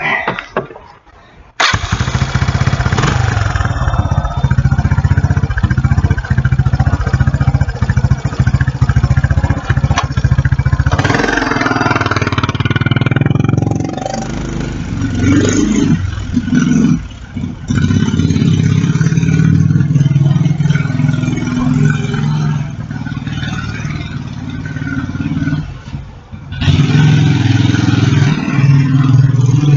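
Kawasaki Bayou 300 quad bike's single-cylinder four-stroke engine starting up about two seconds in and running, its sound dipping and rising several times.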